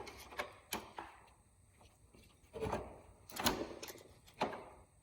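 Hand tools clinking and knocking on metal as bolts are worked out of a motorcycle wheel assembly: a few light clicks, then louder knocks about two and a half, three and a half and four and a half seconds in.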